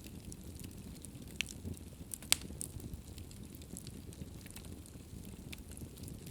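Fire crackling in a fireplace: a steady low rumble of flames under many small clicks, with a sharp pop a little over two seconds in and a smaller one about a second before it.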